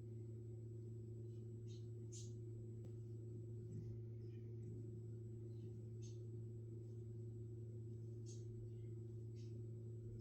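A steady low hum with a few fixed overtones, like an electrical appliance or fan. A few faint, brief high-pitched ticks or scratches come and go over it.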